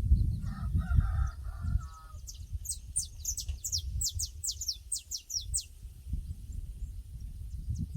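Birds calling in a pasture: a short stuttering call of rapidly repeated notes in the first two seconds, then a quick run of high, falling notes, about four a second, for some three seconds. A low rumble lies under it all.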